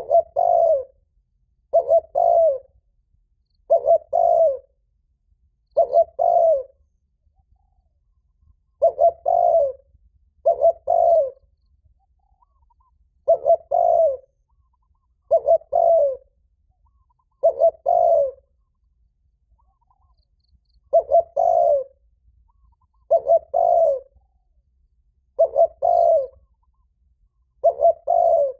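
Spotted dove cooing loudly: a ringing phrase of two or three quick coo notes, repeated about every two seconds with one longer pause near a third of the way through. It is the male's challenge coo, given to provoke a rival.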